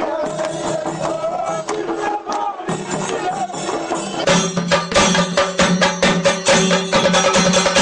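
Traditional folk music with voices and singing. A little over four seconds in, a fast, even percussion beat of about five strokes a second starts over a held low tone and grows louder.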